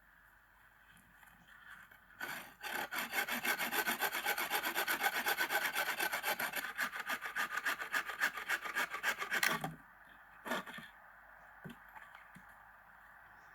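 Hand saw cutting wood in quick back-and-forth strokes, about four a second, for some seven seconds. It stops, and one short scrape follows about a second later.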